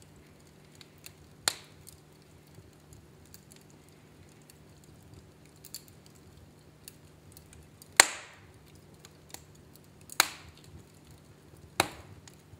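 Wood fire in a fireplace crackling, with small scattered ticks and four sharp pops, the loudest about eight seconds in. A faint steady low hum runs underneath.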